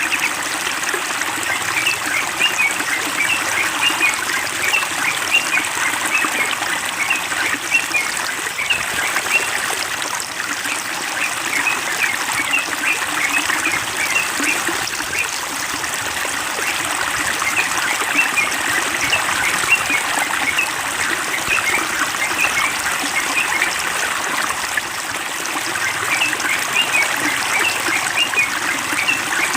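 Steady running, trickling water, with a bird chirping in several short runs of quick high notes over it.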